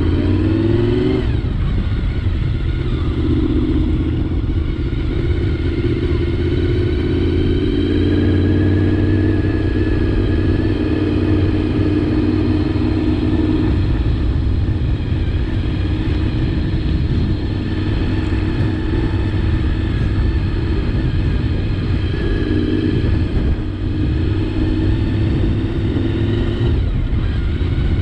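Honda VFR 750 motorcycle's V4 engine running under way. It rises in pitch right at the start, drops about a second in as it shifts, then holds a steady cruising note over a constant low rumble.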